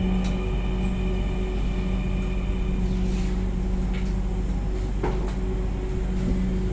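Steady electrical hum inside a metro rail carriage, holding constant tones with a low drone beneath, and a few faint clicks.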